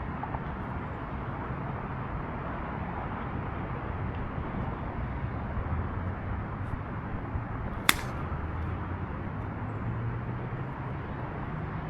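A single sharp click of a golf club striking the ball, a shot hit a little fat, over steady distant traffic noise.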